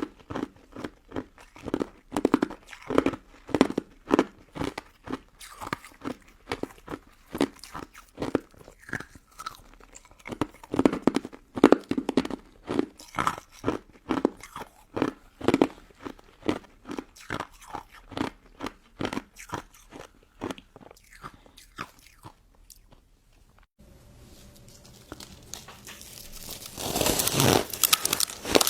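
Close-miked chewing of a crunchy frozen crystal snow ice dessert: a fast, regular run of crisp crunches, a few a second, dying away about 22 seconds in. After a short lull, a louder crackling, rustling noise builds near the end.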